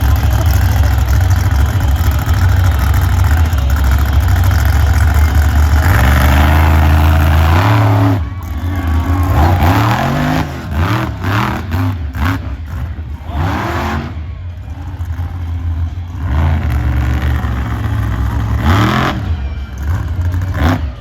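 Monster truck engine running loud and steady, climbing in pitch about six seconds in, then revved repeatedly, its pitch rising and falling with short drops between revs.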